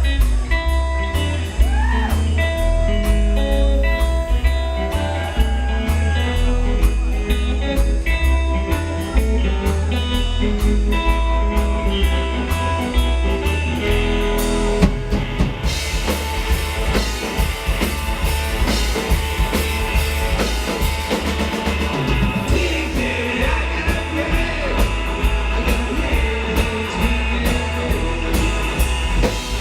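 Live psychobilly rock band playing: electric guitar notes over a driving drum beat and bass, with crashing cymbals filling out the sound about halfway through.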